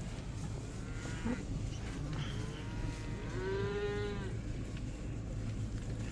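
Cattle mooing around a slow-moving farm truck: a faint moo about a second in, then one long, louder moo that rises and falls in pitch a little past halfway. The truck's engine hums steadily underneath.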